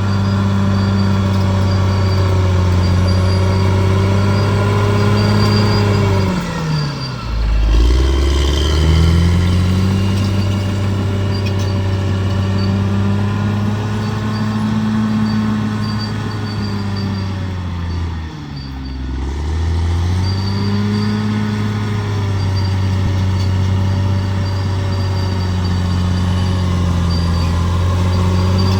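Bulldozer's diesel engine running hard and steady. Twice, about a quarter of the way in and again past halfway, its pitch sags steeply and climbs back, the engine lugging down under load and recovering.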